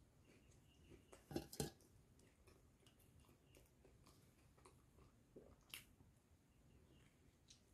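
Faint chewing and soft, wet mouth sounds of a person eating a bread-bun burger, with scattered small clicks and two louder sharp smacks about a second and a half in, and another near the end.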